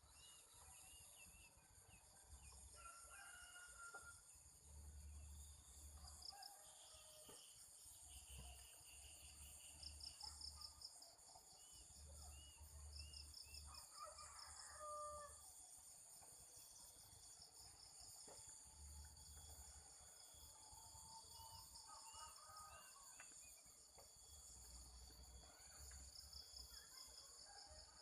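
Faint rural morning ambience: a steady, pulsing drone of insects, small birds chirping, and a rooster crowing about halfway through.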